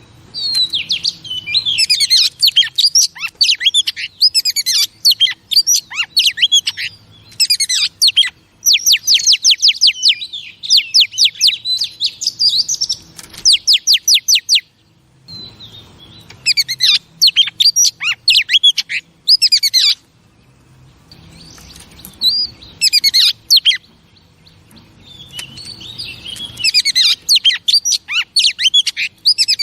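Female Oriental magpie-robin singing runs of quick, varied whistles and chattering trills, in several long bursts with short pauses between them.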